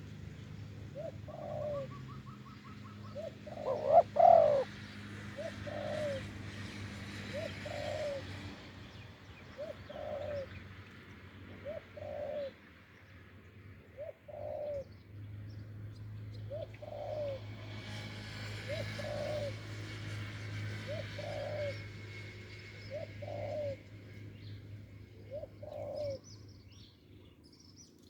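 Spotted doves cooing over and over in short phrases that repeat about every second and a half, with one much louder, closer call about four seconds in. Faint chirps of small birds come in near the end.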